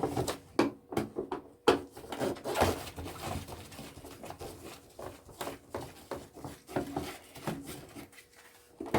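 Irregular clicks, taps and rubbing from handling a plastic projector casing while its screws are taken out, the sharpest knocks in the first few seconds.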